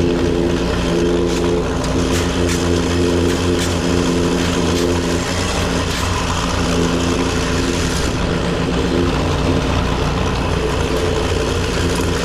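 An engine running steadily at a constant speed, loud, with a low pulsing throb.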